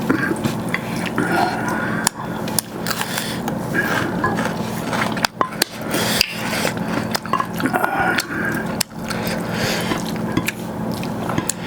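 Close-miked eating of a plate of rice and chicken gravy: repeated sharp clinks and scrapes on the plate, mixed with the soft sounds of the food being stirred and eaten.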